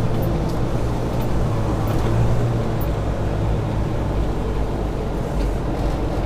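Semi-truck diesel engine running under way, heard from inside the cab as a steady low drone.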